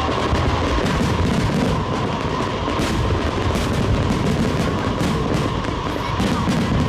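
Fireworks going off in quick succession: a dense run of bangs and crackles.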